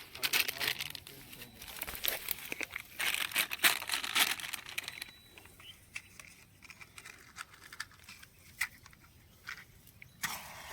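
Dry kindling being handled and crumpled as a cooking fire is being lit: a dense run of crinkling crackles that thins out about halfway through into scattered clicks and snaps.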